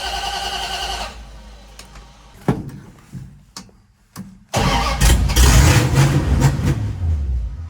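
A steady whine cuts off about a second in, followed by a few clicks and a sharp knock. About halfway through, the V8 engine of a 1981 Dodge D150 pickup starts and runs loudly and unevenly for about three seconds, then dies away.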